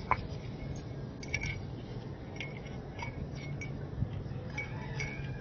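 A series of light metallic clinks and taps, some with a short ring, as the coil spring is fitted back into the oil filter housing cap, over a steady low hum.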